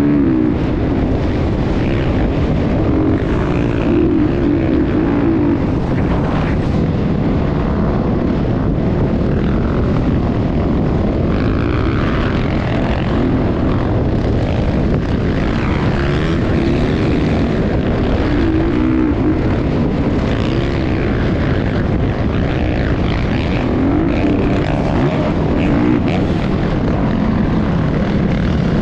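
Motocross bike engine running continuously, its pitch wavering up and down as the throttle changes, over a dense low rumble.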